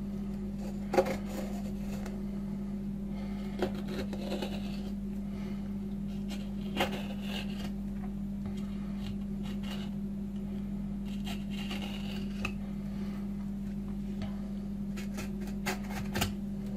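A knife cutting and scraping along lamb rib bones, with a few short sharp clicks, over a steady low hum.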